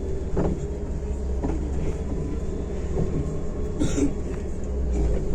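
MAZ-105 city bus in motion, heard from inside the cabin: a steady low rumble of engine and road with small rattles and knocks from the body. A short hiss comes about four seconds in.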